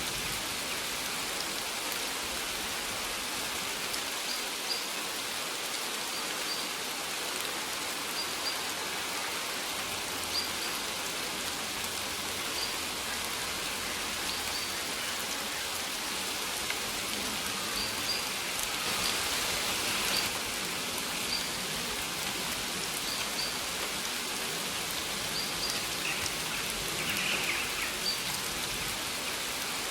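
Steady rain falling, with short high bird chirps now and then.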